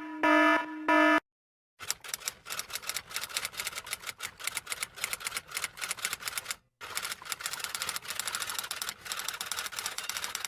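Two short electronic beeps, then after a moment's pause a long run of fast typing clatter: keys striking rapidly and unevenly, with one brief break partway through.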